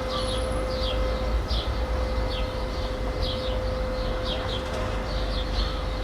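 Residential street ambience: small birds chirping repeatedly, about two short high chirps a second, over a constant low rumble of distant traffic and a steady hum that fades down after about a second and a half.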